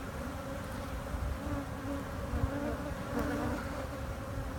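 Honeybees buzzing around an open hive: a steady, unbroken hum holding one low pitch.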